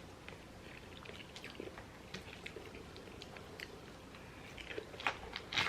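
Close-up eating sounds: irregular wet chewing and mouth smacks, growing louder and busier near the end.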